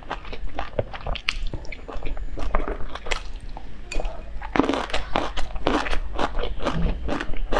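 Close-miked chewing of soft steamed stuffed buns: a run of wet smacks and clicks from the mouth, busier and louder from about halfway through.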